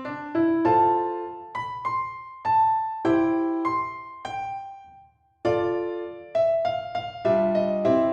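Background music played on piano: a gentle melody of single struck notes that ring and fade, breaking off briefly about five seconds in before carrying on.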